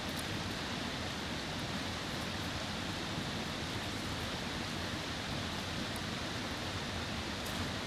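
Mountain stream rushing over rocks, a steady even wash of water noise with a few faint ticks on top.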